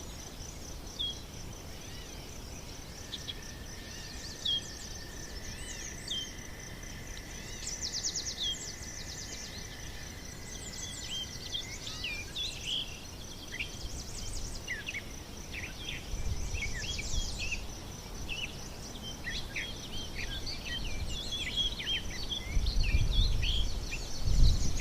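Outdoor nature ambience: many birds chirping and calling over a steady, pulsing high insect trill, with the bird calls growing busier after the middle. A low rumble comes in near the end.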